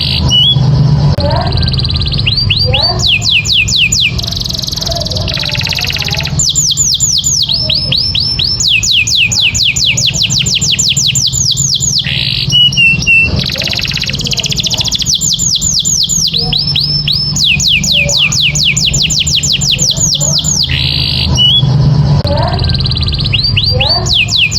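Domestic canary singing vigorously in full song: long rolled trills of rapid notes, each sweeping down in pitch, several a second, broken by short chirps and buzzy phrases, over a steady low hum.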